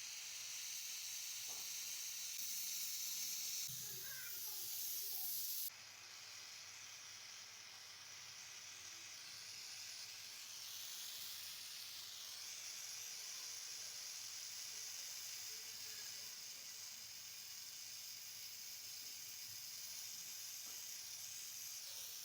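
Faint steady hiss, dropping a little about six seconds in.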